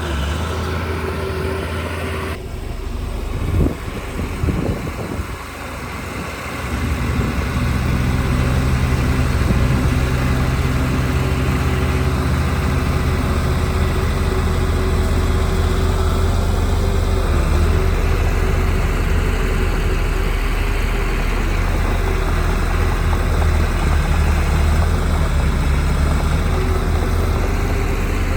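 Diesel engine of heavy earthmoving equipment running, with a few knocks and an uneven stretch in the first several seconds, then running steadily and a little louder for the rest.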